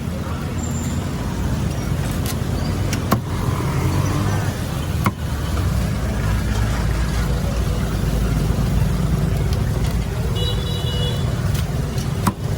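Steady low rumble of road traffic, with a few sharp clicks and a short high tone near the end.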